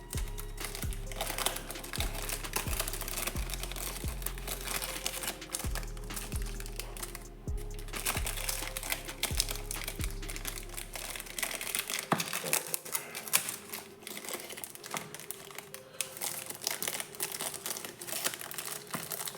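Box packaging crinkling and rustling with small clicks as it is opened by hand. Under it runs background music with a steady bass beat that fades out a little past halfway.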